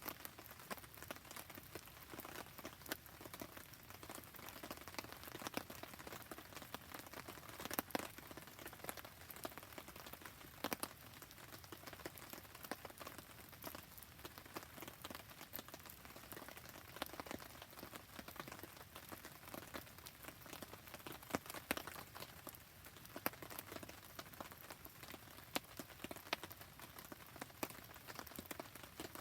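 Steady rain with scattered sharp drips and pops mixed in, beside a crackling campfire.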